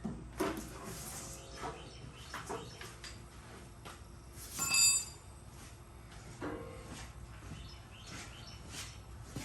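Scattered metal clicks and knocks of hand tools at work on a mower deck, with one ringing metallic clang about four and a half seconds in, the loudest sound.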